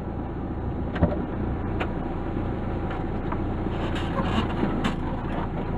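Mark II Volkswagen Golf running on the road, a steady engine and road rumble with a few light knocks and rattles.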